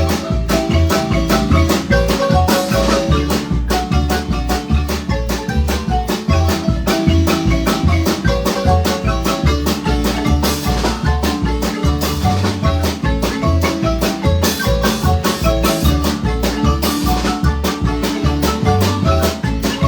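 Marimba ensemble playing a lively piece: quick struck mallet notes over a steady, evenly repeating bass beat.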